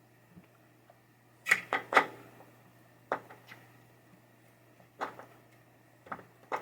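Sharp clicks and knocks of hands and tools working on a pinball pop bumper assembly. There is a quick cluster of three about a second and a half in, then single clicks every second or so, over a steady low hum.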